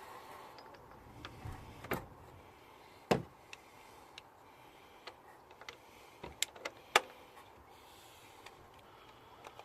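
A few scattered clicks and knocks over a faint steady background, the loudest a dull knock about three seconds in, with a quick run of sharper clicks near the end.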